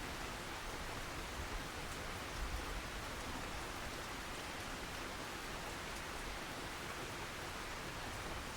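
Steady rain, an even hiss of falling drops with faint scattered patters.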